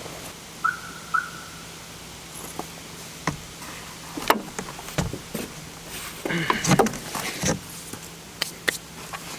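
Two short electronic beeps from a campervan's alarm being switched off, followed by scattered clicks and knocks of handling.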